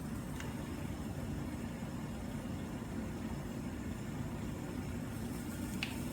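Steady low hum of a mini-bar refrigerator running, with two faint clicks, one just after the start and one near the end.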